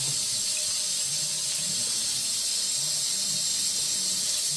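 Warm water running steadily from a tap into a bath, a constant even hiss.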